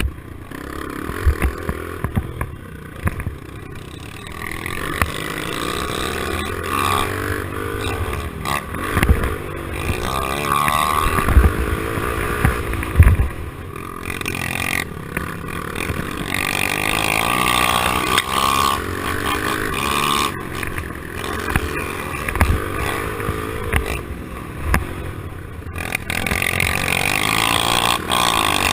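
110cc pit bike four-stroke single-cylinder engines revving up and down over and over as the bikes ride the track, with several sharp thumps along the way.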